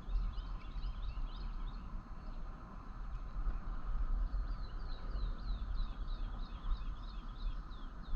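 Small birds chirping: a jumble of short high calls, then from about halfway a regular run of falling notes about three a second, over a steady low rumble.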